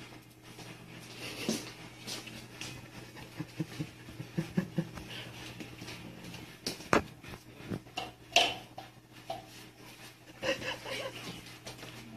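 Cats eating dry kibble from bowls, with small crunches and scattered clicks and knocks of the bowls being pushed. The sharpest knocks come about seven and eight seconds in.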